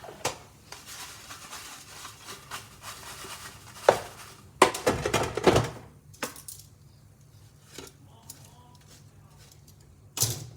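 Philips XL air fryer basket being handled and shaken halfway through cooking, the lattice potato chips rattling inside. There is a sharp knock just before the clatter and a sharp click near the end.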